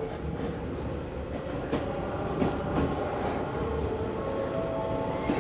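Resistance-controlled Izu Hakone Railway Series 3000 electric train heard from inside the car as it pulls away: the traction motors whine, rising slowly in pitch over the running rumble, and the wheels click over rail joints a few times.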